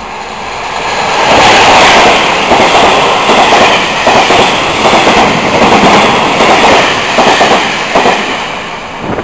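Locomotive-hauled Taiwan Railway Chu-Kuang express train running past close by. The sound builds over the first second or so as the locomotive arrives. It then becomes a steady loud rush with a rhythmic clatter of wheels over the rail joints as the coaches go by, easing near the end.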